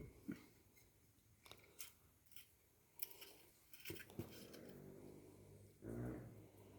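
Faint scattered clicks and scrapes of food and utensils being handled, with a brief low hum about six seconds in.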